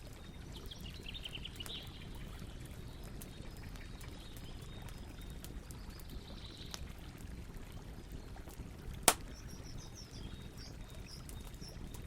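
Campfire crackling, with scattered small pops and one sharp, loud pop about nine seconds in, over a low steady noise. Birds chirp in the background: a short run of falling notes near the start and a series of high notes after the loud pop.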